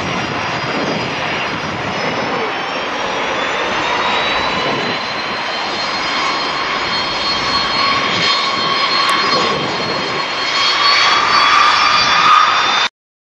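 Boeing 737-400 jet with CFM56-3 turbofan engines running, a loud rush with a whine that rises slightly in pitch and grows louder, then cuts off abruptly near the end.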